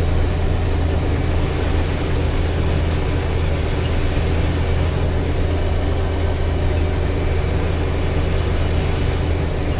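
Combine harvester running steadily while harvesting soybeans: a constant low engine hum under an even noise from the threshing machinery, with no change through the stretch.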